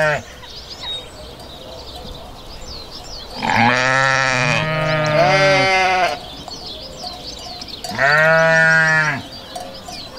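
Sheep bleating: two overlapping bleats at different pitches a few seconds in, then a single drawn-out bleat near the end.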